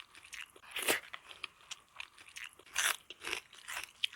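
Close-miked crunching of crisp food being bitten and chewed, with louder crunches about a second in and around three seconds, and smaller crackles between.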